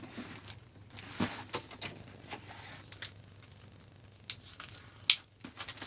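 Packaging of a mailed parcel being handled and opened by hand: scattered faint rustles and short clicks, with two sharper snaps in the second half.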